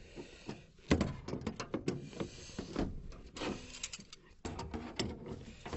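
Hand tools working on a gas furnace's metal parts: a run of uneven clicks, knocks and scrapes as a pliers wrench grips and works a part loose.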